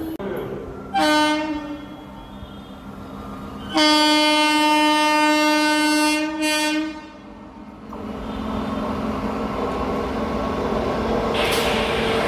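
Indian Railways locomotive horn: a short blast, then a long blast of about three seconds. After it, the train's running noise grows steadily louder as it approaches.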